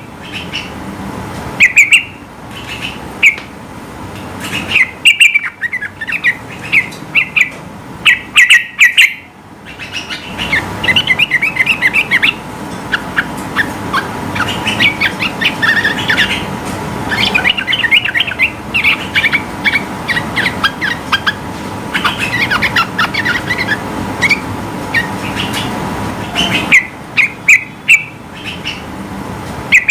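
Yellow-vented bulbul singing: short, loud bursts of bubbling notes, then from about a third of the way in a long, dense run of rapid chattering notes, with the short bursts coming back near the end.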